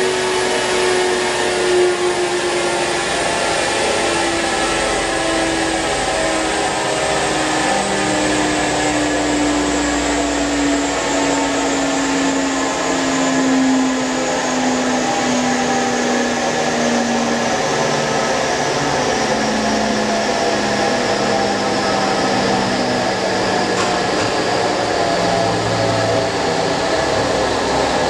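Mitsubishi 6A12 MIVEC V6 in a Honda Civic, its note falling slowly and steadily in pitch as the car slows, over a steady rush of road and wind noise.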